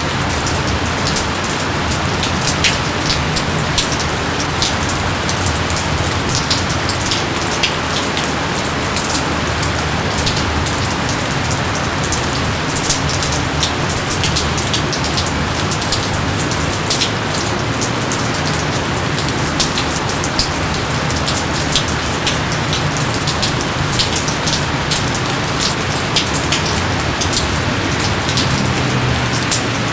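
Steady rain falling, with many sharp drop ticks over a constant dense hiss.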